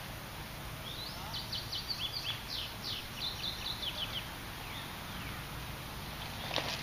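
A songbird singing a fast run of short, high, downward-sliding notes for about three seconds, over a steady outdoor background hiss. A couple of sharp clicks come near the end.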